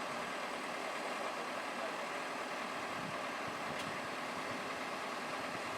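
Kobelco SK200-8 Super XM excavator's diesel engine running steadily.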